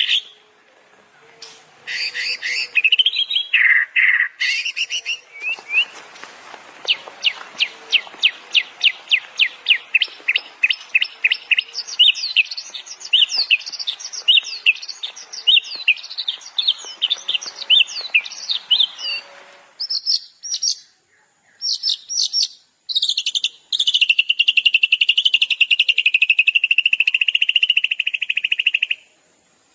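Songbirds singing a string of different high-pitched phrases: first varied whistled phrases, then a long run of quick repeated chirps over a faint hiss, a few short bursts, and near the end a fast trill held for about five seconds.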